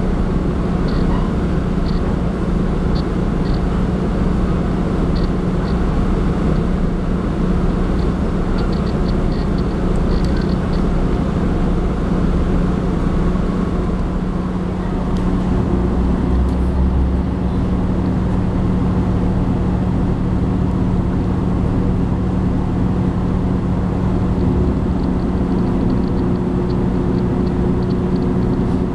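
Diesel railcar of the Jiji Line heard from inside the carriage while under way: a steady engine drone with a constant low hum over the rumble of the wheels on the track, with faint high ticks at times.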